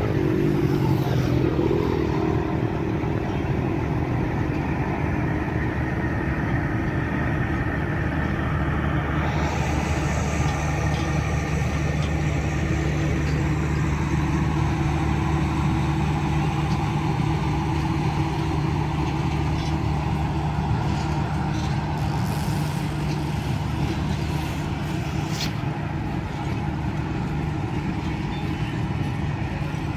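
Diesel locomotive engine running steadily as the passenger train pulls away, with the rumble of the coaches' wheels rolling on the rails. A hiss of wheel and rail noise comes in about a third of the way through.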